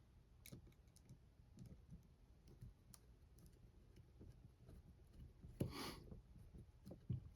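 Faint, scattered clicks of tools and small parts being handled while a screw is fitted into a camper window frame, with a brief louder scrape about six seconds in and a short knock near the end.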